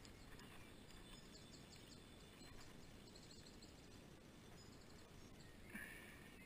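Near silence: faint open-air ambience with a small bird's quick repeated high chirps from about one to four seconds in, and a brief faint sound near the end.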